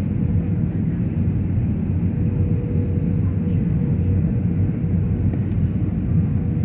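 Steady cabin rumble inside an Airbus A320 in flight on approach: engine and airflow noise with a faint constant hum above it.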